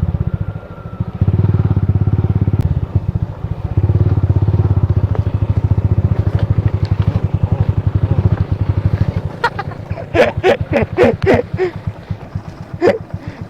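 Motorcycle engine running at low revs with a steady pulsing beat, easing off briefly twice, then dropping quieter about nine seconds in.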